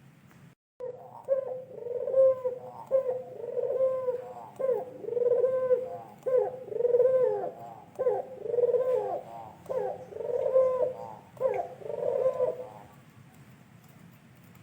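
White pugeru dove cooing in a long run of repeated phrases, roughly one a second, each a low coo with a short rising-and-falling upper note. It falls silent near the end.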